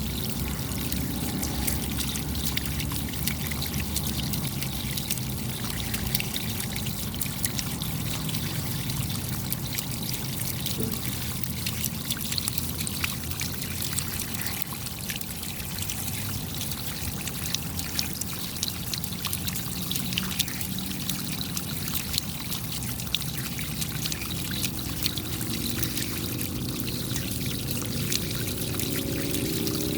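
Steady rain, with many sharp drop ticks over a continuous sound of trickling, pouring water.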